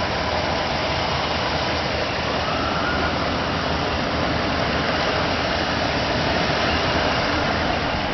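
2006 Jeep Commander engine idling steadily, heard as an even, unbroken running noise.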